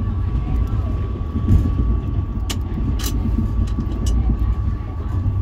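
Pakistan Railways Millat Express passenger train running at speed, heard from inside the carriage: a steady low rumble with a thin steady hum above it, and a couple of sharp clicks about two and a half and three seconds in.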